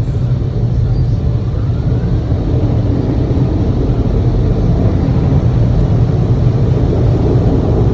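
Loud steady low rumble heard from inside a car, starting abruptly just before and holding evenly throughout.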